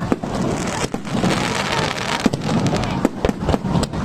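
Fireworks display: a dense crackle like heavy rain, cut by several sharp bangs of shells bursting.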